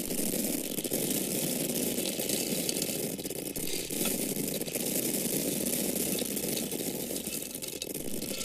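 Dried corn kernels pouring and falling onto a surface, a steady dense pattering rattle of many small grains without a break.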